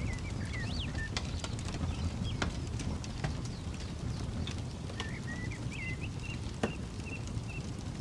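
Campfire crackling with scattered sharp pops over a low steady rumble, while a small bird chirps short phrases at the start and again from about five seconds in.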